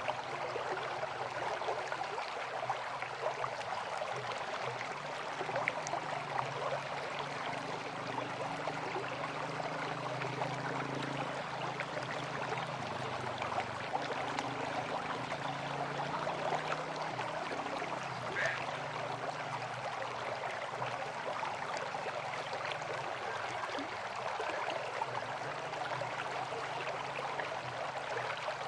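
Steady rush of flowing river water, an even hiss with fine crackle, with a faint, wavering low hum beneath.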